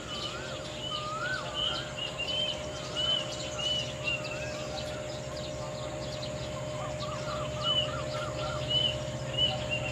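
Birds calling: repeated rising-and-falling whistles and short high chirps, over a steady low hum.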